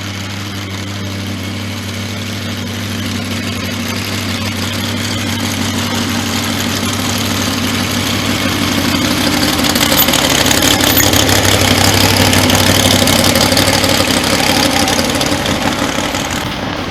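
A car engine running at low, steady revs, growing louder toward the middle and easing off near the end.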